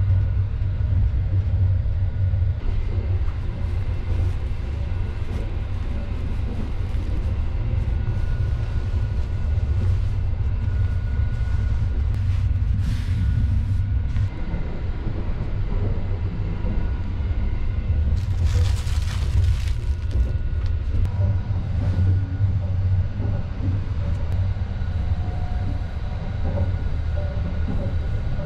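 Sunrise Seto sleeper train running, a steady low rumble of the carriage heard from inside the compartment. Two brief hissing rustles come about 13 seconds in and again about 19 seconds in.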